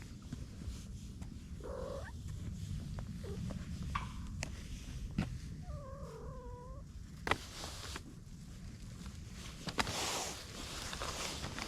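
Cat purring steadily, with a short rising meow about two seconds in and a longer, wavering call around six seconds in; a few sharp taps follow later.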